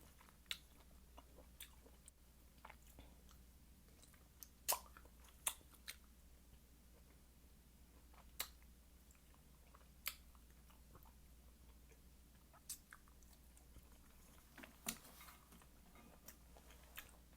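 Quiet, close-up chewing and biting of fresh cherries. Short sharp wet bites and mouth clicks come every second or so, the loudest a little under five seconds in.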